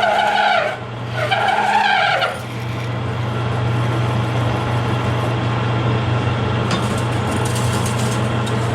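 A metal lathe drilling out a large hole in an aluminium billet with a big drill bit. The bit squeals three times near the start, each squeal rising and falling in pitch, then the lathe runs on steadily with a hum and cutting noise.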